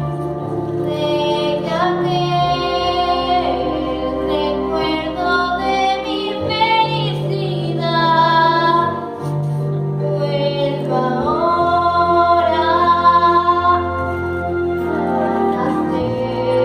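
A female voice singing a slow ballad in long held notes with vibrato, over an accompaniment of sustained low notes that change every few seconds.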